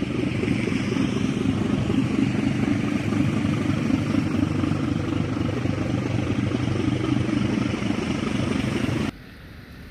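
Diesel engine of a steel-laden inland cargo ship droning steadily as it passes, cutting off abruptly about nine seconds in.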